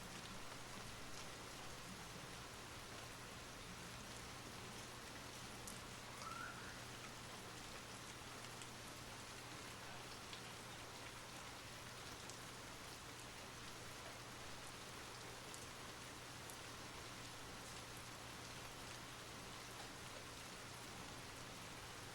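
Soft, steady rain: an even hiss with scattered drops ticking.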